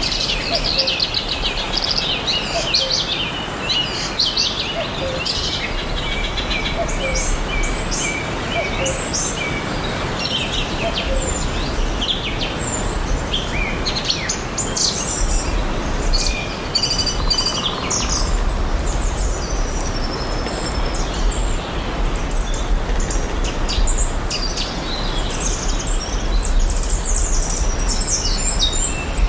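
Several birds chirping and singing in quick short calls and trills over a steady background hiss, with a low rumble underneath from about halfway through.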